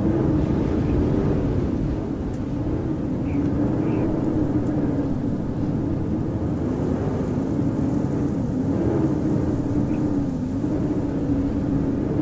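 Howling winter wind: a steady low rush with a moaning tone that wavers up and down in pitch.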